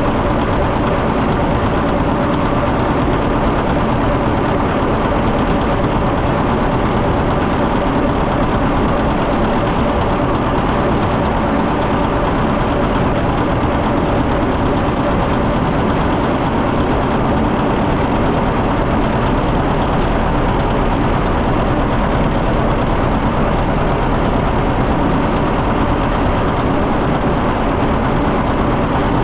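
John Deere 730 tractor's two-cylinder engine running steadily as the tractor is driven down the road.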